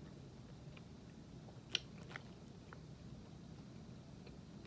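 Faint chewing of a piece of beef jerky, with a few soft clicks and one sharper click a little under two seconds in.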